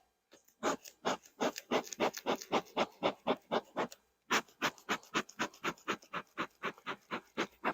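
Quick, even scratchy strokes, about four a second, with a short break about halfway through.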